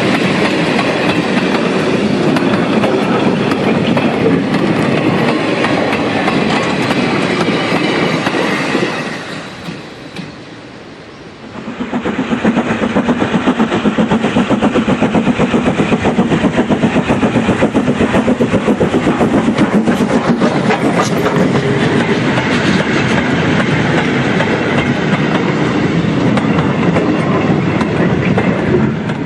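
Model steam train running along the layout, its wheels clicking over the rail joints. The sound dips sharply about nine seconds in, then comes back as a fast, even beat that carries on to the end.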